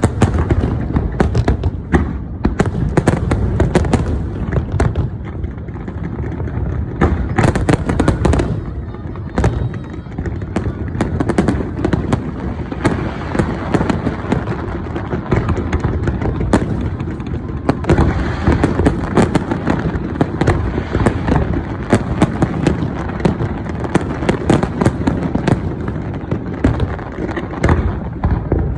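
Fireworks going off in a dense, unbroken barrage: booms and sharp cracks follow one another too fast to count.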